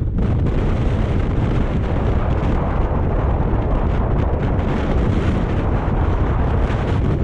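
Strong wind buffeting the camera microphone in a steady, heavy low rumble.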